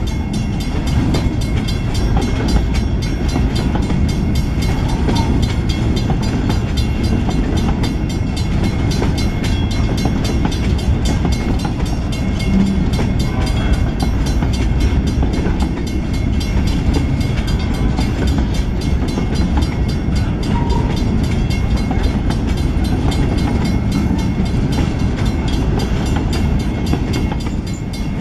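Freight train of boxcars and covered hopper cars rolling past close by: a steady rumble with a running clatter of steel wheels on the rails.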